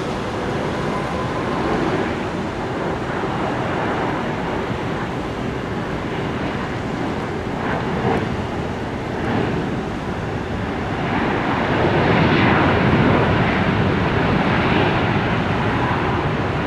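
Jet airliner engines, a steady rushing noise that grows louder about eleven seconds in.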